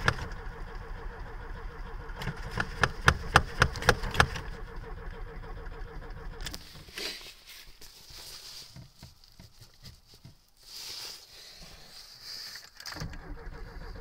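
A Lada's engine is cranked in hard frost with the choke full on. It fires a quick run of sharp pops about two to four seconds in without catching. The cranking stops about six and a half seconds in and starts again near the end.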